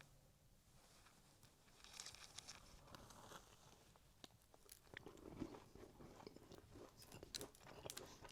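Faint close-miked biting and chewing of a cookie: crisp crunches and small crackles begin about two seconds in and go on irregularly, with a heavier chewing patch around the middle.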